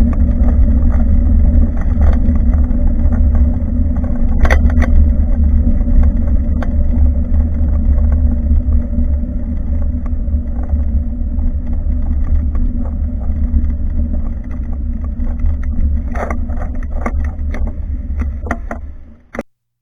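Riding noise picked up by a camera mounted on a moving bicycle: a steady low rumble of wind on the microphone and tyres on the road, with a few sharp knocks from bumps. It fades and cuts off near the end.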